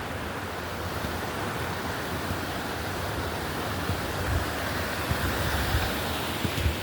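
Steady rush of water from a waterfall, with a few short low thumps of wind buffeting the microphone.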